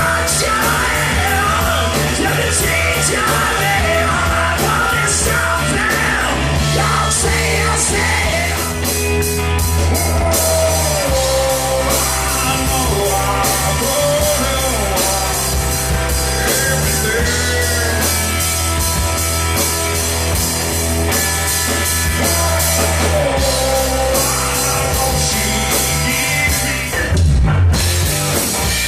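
Rock music from a band: drums, bass and electric guitars playing loudly, with a wavering melody line on top.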